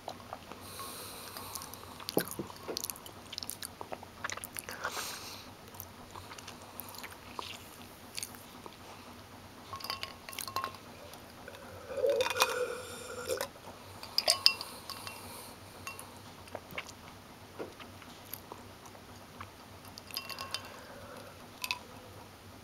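Close-up chewing of crunchy breaded fish sticks: irregular crisp crunches and wet mouth clicks, with a louder stretch of chewing about halfway through.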